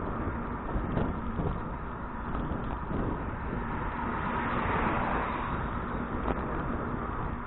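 Wind rushing over an action camera's microphone, with tyre rumble and a few small rattles from a touring bicycle being ridden; the rush swells about four to six seconds in. A faint steady hum runs underneath.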